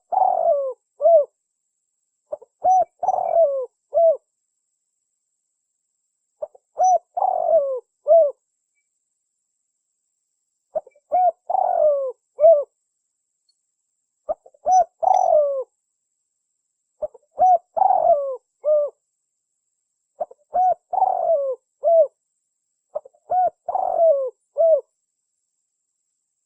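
Spotted dove (tekukur) song: a short phrase of three or four coos, repeated about every three seconds. This is a clean recording of the kind played as a lure call to attract wild doves.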